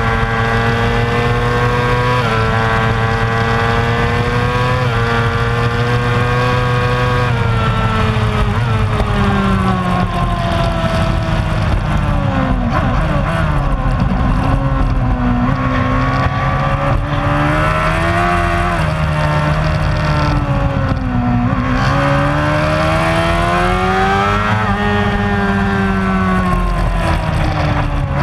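Superbike racing motorcycle engine running hard at high revs, stepping through gear changes in the first several seconds, then dropping and climbing in pitch several times as it brakes and accelerates.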